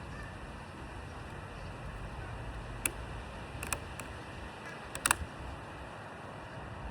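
Steady outdoor background noise with a few short, sharp snaps: one about three seconds in, a quick pair and another just after, and a louder double snap about five seconds in.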